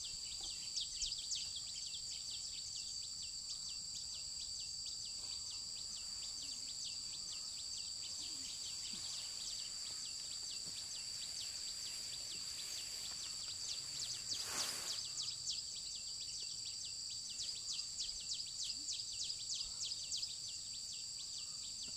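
Insect chorus droning steadily in a high pitch with a rapid, even pulsing, over faint outdoor noise. A brief swish about two-thirds of the way through.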